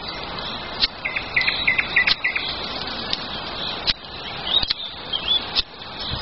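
Small birds singing: a quick run of short chirps about a second in and a couple of brief rising whistles later. Over a steady hiss there are sharp snaps or cracks about once a second.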